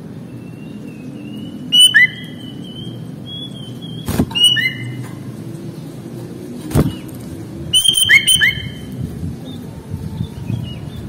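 Sooty-headed bulbul calling in short bursts of clear whistled notes and chirps, some of them sliding in pitch, in three clusters. Sharp clicks come in among them, and a low rumble sits under everything.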